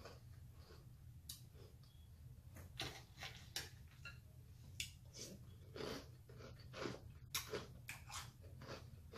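Close-up chewing of crunchy Apple Jacks cereal in milk: irregular soft crunches and mouth sounds, with a few sharp clicks of a metal spoon against the glass bowl.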